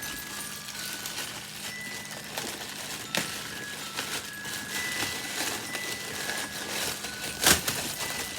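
Unboxing noises: packaging rustling and being handled, with a sharp knock about three seconds in and a louder knock near the end.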